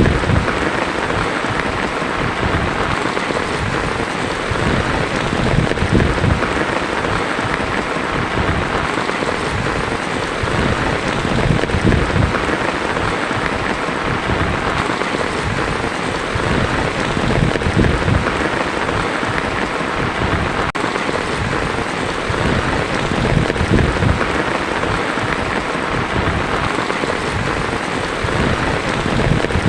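Heavy rain drumming steadily on a tin roof, with a low rumble that swells and fades every few seconds.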